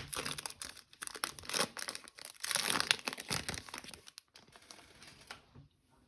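Plastic foil wrapper of a trading-card pack being torn open and crinkled by hand, loudest a little under three seconds in, then dying down to soft rustling.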